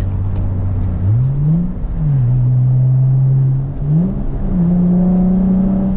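Infiniti G35 coupe's VQ V6 through a Z1 M Spec dual exhaust, revving up under acceleration about a second in and falling in pitch at a gear change just after two seconds. It climbs again near four seconds and then holds steady at the higher note.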